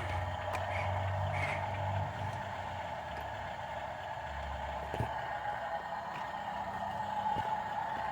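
Dump truck running with a steady whine, a low rumble that comes and goes, and a few light clicks and knocks.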